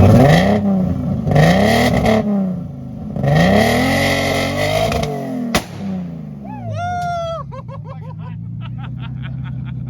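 Nissan 350Z V6 revved hard three times through its freshly welded custom exhaust, each rev rising and falling, then dropping back to idle.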